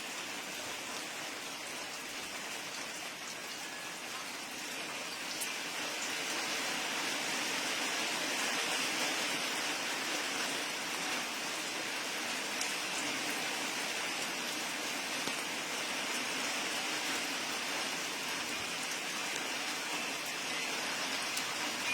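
Steady rain falling, a little louder from about six seconds in.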